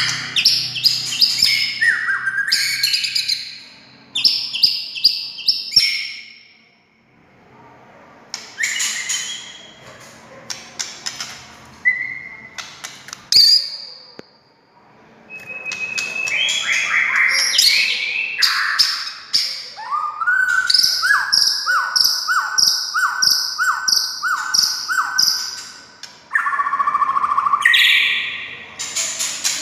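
White-rumped shama (murai batu) singing in loud, varied bursts of fast chattering trills, whistles and sharp high clicks, broken by short pauses. In the second half it repeats one down-slurred whistle over and over at an even pace.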